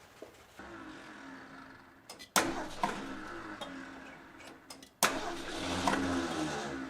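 The 1978 Ford F150's engine running, with two sudden loud surges about two and a half seconds apart, each easing back down.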